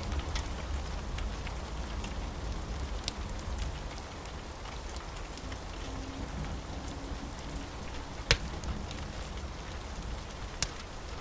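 Steady rain with a low rumble underneath and a crackling fire, whose sharp pops come at irregular intervals; the loudest pop is about eight seconds in.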